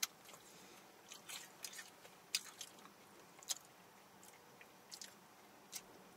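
Faint chewing and crunching of fried chicken, with short crisp crunches scattered about once a second.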